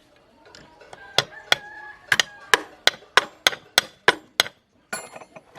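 A hand hammer striking a metal part in a rapid, even series of about ten blows, roughly three a second, with a faint metallic ring between blows.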